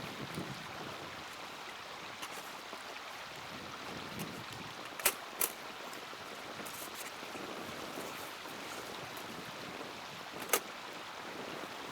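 Small wood fire crackling in a mini hexagonal fire stand: a steady hiss with scattered light crackles and three sharper pops, two close together about halfway through and one near the end.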